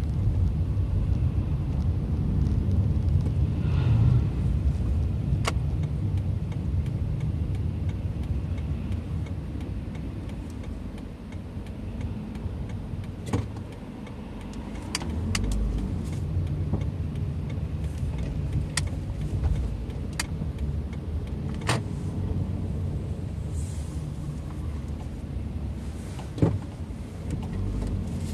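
Car driving, heard from inside the cabin: a steady low rumble of engine and tyres on the road, easing off for a few seconds midway, with scattered sharp clicks and knocks.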